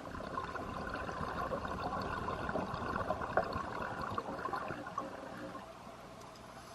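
Scuba diver's exhaled bubbles leaving the regulator, a bubbling, crackling rush for about five seconds that then fades away.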